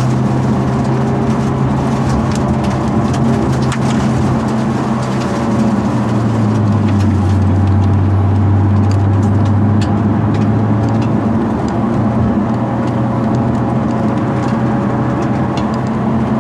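Genesis Coupe 2.0's turbocharged four-cylinder engine running steadily under way on a mountain road, with tyre and road noise heard from inside the cabin. The engine note drops lower for a few seconds around the middle, then rises again.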